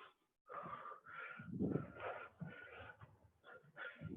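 A person breathing hard and fast from exertion: short, rhythmic breaths about two a second, out of breath mid squat-and-lunge cardio.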